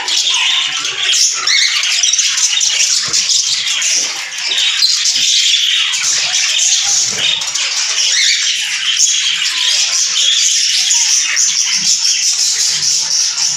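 Many caged budgerigars and cockatiels calling continuously, their high-pitched calls overlapping into a constant din.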